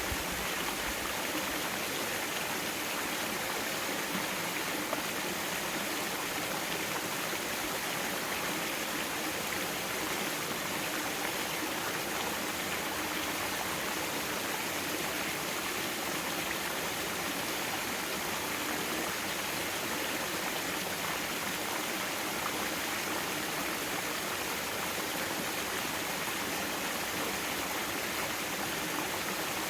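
Mountain stream water flowing over rocks in a valley, a steady rushing with no change in level.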